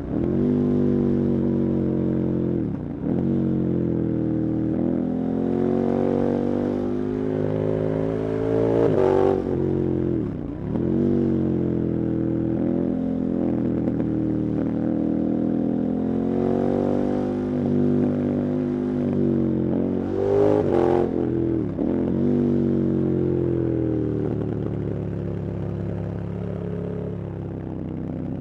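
KTM 1290 Super Adventure's 1301 cc V-twin engine under riding load. The revs rise and fall repeatedly, with brief drops at gear changes and two sharp surges, about 9 seconds in and about 21 seconds in.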